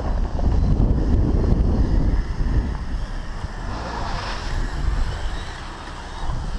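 Wind buffeting the microphone, over the brushed electric motor and tracks of a Kyosho Blizzard radio-controlled snow vehicle running across snow; loudest in the first two seconds.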